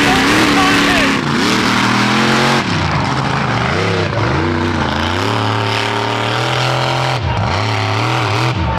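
Mud bog truck's engine revving hard, its pitch rising and falling again and again as the throttle is worked, with a couple of brief drops near the end.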